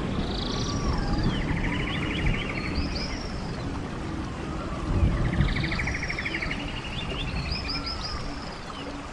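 Birds singing over a running stream: a song made of a fast trill and arching whistles comes twice, about five seconds apart, above a steady rush of water.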